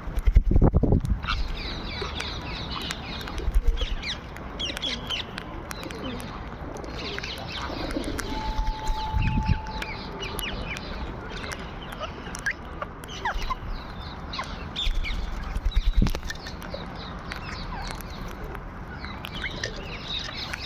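A flock of parrots chirping and calling in many short, quick notes while they feed, with a few loud low rumbles and a short steady tone a little before the middle.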